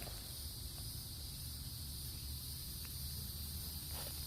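A steady, high-pitched chorus of insects such as crickets droning without a break, over a low rumble of handling or wind, with a few faint ticks.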